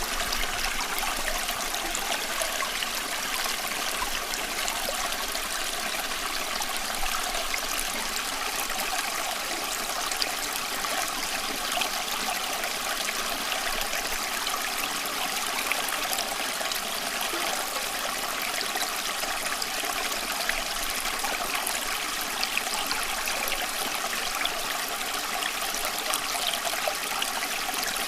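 Running water of a small stream, a steady rush with many small splashes and trickles, unchanging throughout.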